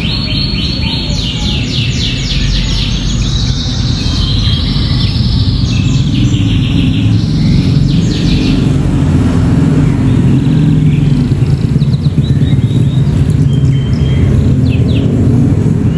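A canary trained on bar-winged prinia (ciblek) phrases sings fast trills of rapidly repeated high notes. The trills are densest in the first half and become scattered chirps later. Under them, a low rumble grows louder through the second half.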